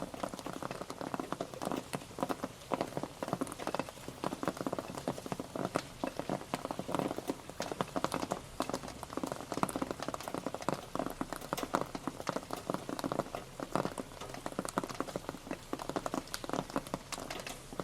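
Rain pattering on a surface: a dense, irregular run of drop ticks over a steady hiss.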